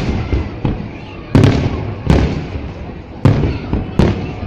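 Aerial fireworks shells bursting: four loud booms and one weaker one, roughly one every second, each followed by a low rolling echo.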